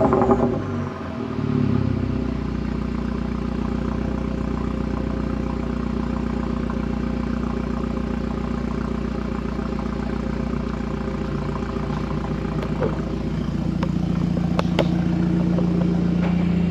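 Car engine just off a rev, its pitch falling away in the first second or so, then running steadily with a low drone that rises a little near the end.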